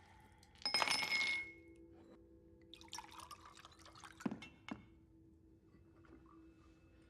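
Glass clinking with liquid sounds: a loud splashing clink with a ringing note about a second in, a rattle of lighter clinks around three seconds, then two sharp knocks a little after four seconds.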